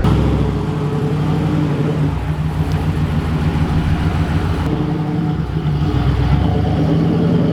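Car engine running steadily, with a low rumble.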